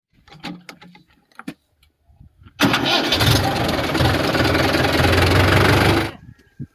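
Tractor engine starting and running loudly with a pulsing low rumble for about three and a half seconds, then cutting off abruptly. A few faint clicks come before it.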